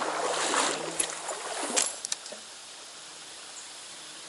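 Trout stream water running steadily. In the first two seconds it is louder, with a few sharp clicks.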